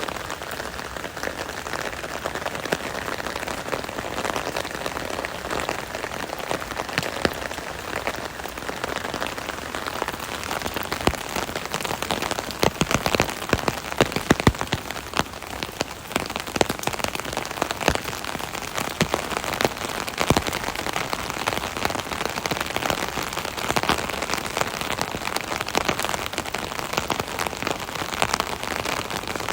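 Steady rain pattering on an umbrella canopy overhead, a dense hiss of many individual drop hits, with heavier, louder drops about halfway through.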